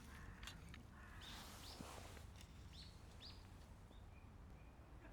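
Faint outdoor ambience with scattered short bird chirps, and a few quick clicks in the first half second.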